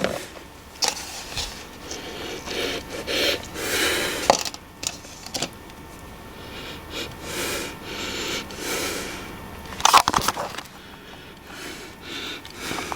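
A person sniffing several times, smelling leaked fluid to tell whether it is water or oil. A short burst of clicks or knocks about ten seconds in.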